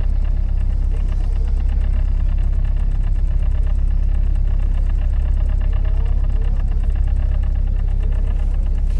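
Tour boat's engine running steadily: a loud low drone with a fast, even knock of its firing strokes.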